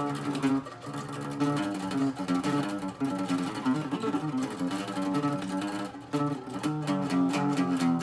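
Acoustic guitar played hard with a pick in a death-metal style, low riffs on old, worn strings. Near the end the picking turns into fast, evenly repeated strokes on one note.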